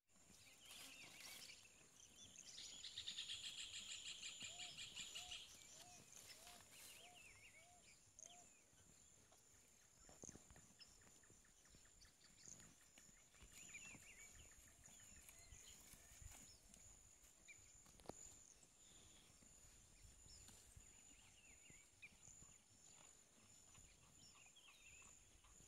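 Faint countryside ambience: birds calling and chirping over a steady high insect drone. A few seconds in comes a loud rapid trill, followed by a short run of repeated low notes.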